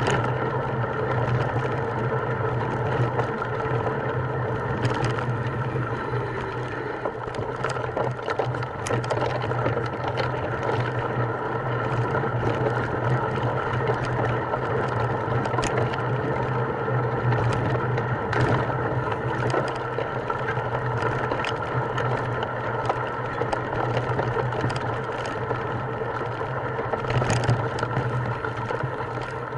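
A motor running steadily with a constant hum, with scattered clicks and knocks over it.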